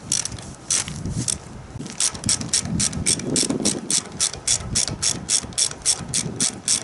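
Ratchet wrench clicking as a nut is run down a long threaded stud to clamp a board: a few separate clicks at first, then a steady run of about five clicks a second from about two seconds in.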